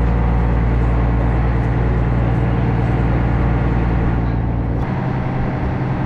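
Steady low drone of a ferry's engine running, with a change in its lowest rumble about five seconds in.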